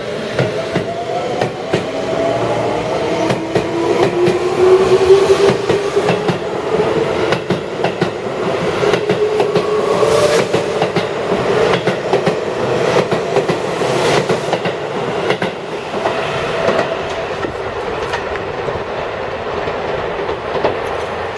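Seibu 20000 series electric train pulling away from the station. Its motor whine rises in pitch as it speeds up, then levels off, while the wheels clack over the rail joints.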